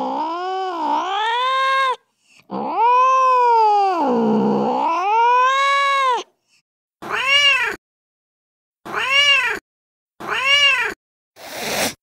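Recorded angry domestic cat sounds from a cat-sounds app: two long wavering caterwauls that dip and rise in pitch over the first six seconds, then four short meows about a second apart, the last one rougher.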